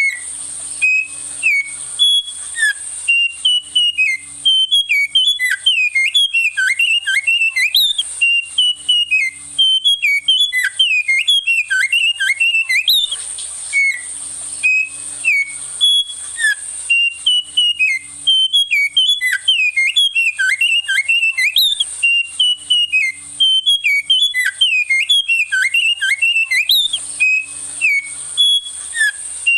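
A small songbird singing a loud, fast run of whistled notes that sweep up and down, the song phrase starting over about every 13 seconds, with a steady high hiss behind it.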